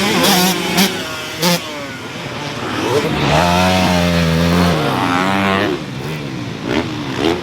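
Motocross dirt bike engines revving up and down on the track. About three seconds in, one bike comes close and gets louder, holding its pitch, then the pitch drops as it goes by.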